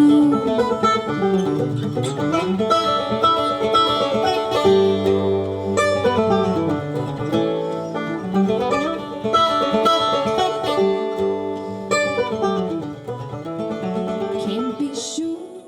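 Acoustic bluegrass string band of guitar, mandolin, bass and fiddle playing, with plucked notes under held, sliding fiddle-like lines. The music fades out near the end.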